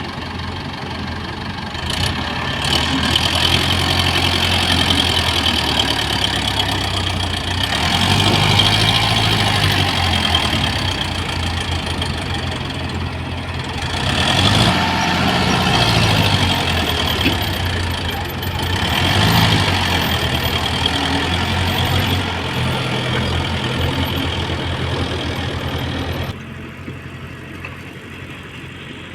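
Tata Hitachi EX70 excavator's diesel engine working its hydraulics, rising and falling in pitch and loudness in swells every few seconds as it digs and swings. Near the end the sound drops suddenly to a quieter, steady running.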